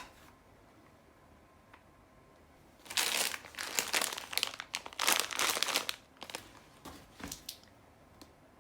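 A sharp click, then crinkling and rustling for about three seconds, trailing off in a few shorter rustles.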